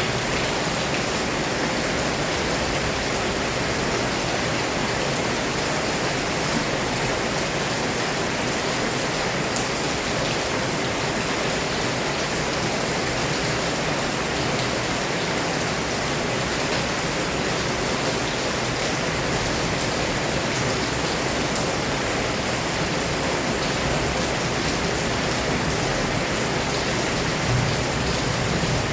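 Heavy rain pouring down steadily, a dense, even hiss of countless drops.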